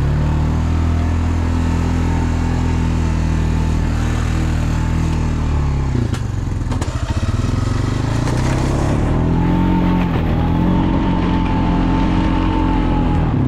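Engine of a snow-plowing vehicle running steadily under load. Its pitch drops about halfway through, then rises and wavers again as the plow works.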